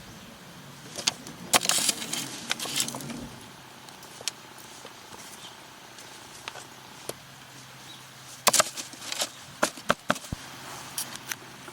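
Scattered clicks and knocks of hard objects being handled, coming in two clusters: one about a second in and another from about eight and a half seconds in.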